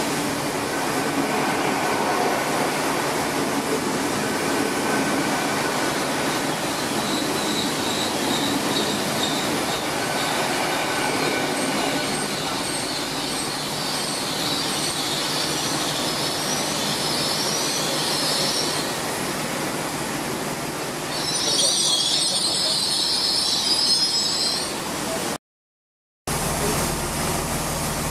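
A Great Western Railway Intercity Express Train running along the platform with steady rolling noise. High-pitched wheel squeals come and go and are loudest shortly before a brief dropout. After the dropout, a Chiltern Railways Class 165 diesel unit is heard approaching.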